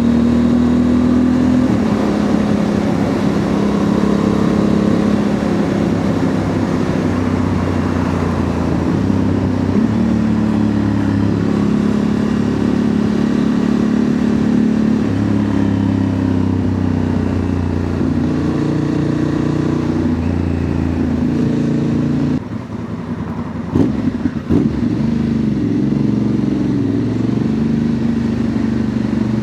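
Honda Transalp's parallel-twin engine running through a Dominator MX2 slip-on exhaust under way, its note stepping up and down with throttle and gear changes. About three-quarters through the sound drops off briefly, with a few sharp pops, before the engine note picks up again.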